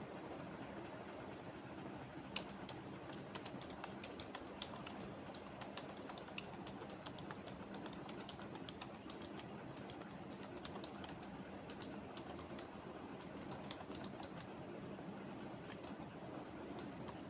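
Computer keyboard typing, irregular key clicks starting about two seconds in and stopping near the end, over a steady low background noise.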